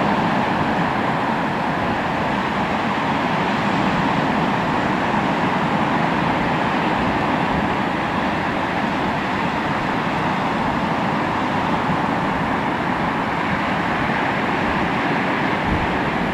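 Sea surf washing on the shore as a steady, continuous rush of noise, with no separate wave breaks standing out.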